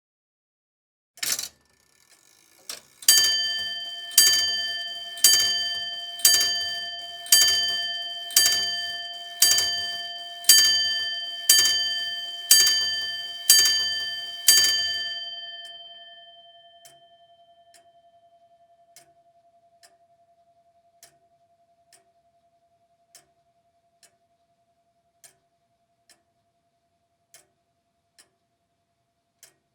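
A clock striking twelve times, about one bell-like stroke a second, after a single click of its mechanism. The ringing fades after the last stroke, leaving faint ticking about once a second.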